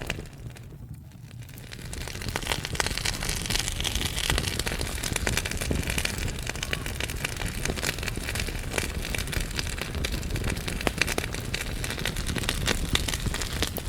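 Wood fire crackling in a fireplace: a dense run of sharp pops and snaps from burning logs over a low steady rumble, dipping quieter for a moment about a second in.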